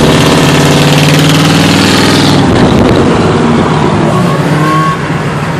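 Car engine running loud and close, idling steadily, then surging in a rising rush about two seconds in as it accelerates. It drops back to a lower level near the end.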